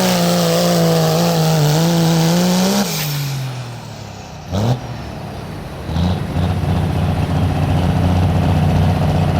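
Diesel pulling truck's engine at full throttle under sled load, its pitch wavering slightly, then cut off about three seconds in as the throttle is released, the pitch sinking away. A brief sharp burst comes a second or so later, and the engine then runs steadily at a lower pitch.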